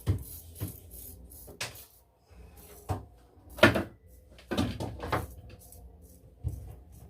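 Scattered knocks and clatters of hard objects being handled, about eight of them at irregular spacing, the loudest a little past halfway.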